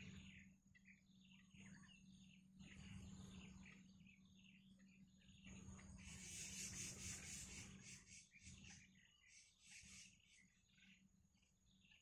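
Faint, repeated short bird chirps over a steady high insect-like drone. A soft rustling hiss swells for about two seconds near the middle.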